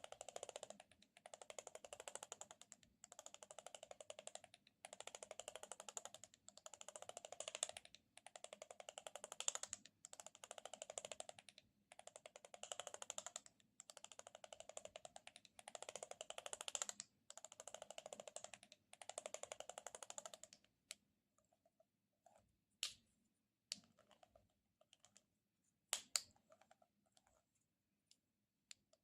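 Close-miked ASMR object handling: about nine repeated strokes of fine crackling, each around a second and a half long, then a few scattered sharp clicks in the last third.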